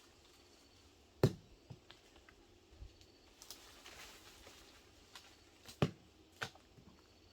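A few scattered knocks and taps, the loudest about a second in and a pair close together near the end, with a soft rustle in between.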